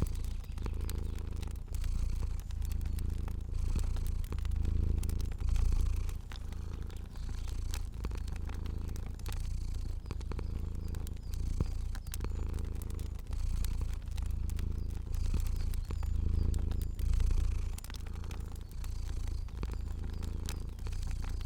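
Cat purring steadily, a low rumble that swells and fades with each breath every second or two, with a fire crackling in small scattered clicks over it.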